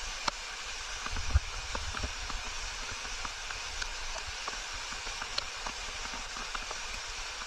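Steady rush of a river or waterfall, with scattered small clicks.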